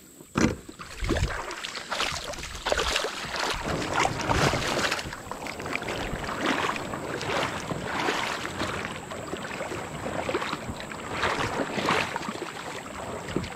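Kayak paddle strokes through the water: a run of irregular splashing swishes, with a couple of sharp knocks in the first second or so.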